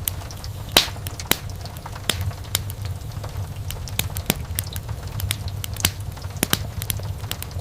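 Wood fire burning in a fireplace: a steady low rumble of flames with frequent sharp crackles and pops from the burning logs, a few of them louder.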